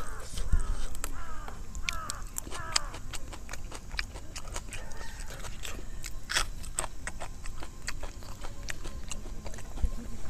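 Close-miked chewing of rice and egg curry, with wet lip-smacking and many sharp mouth clicks. A few short chirping calls are heard in the first three seconds.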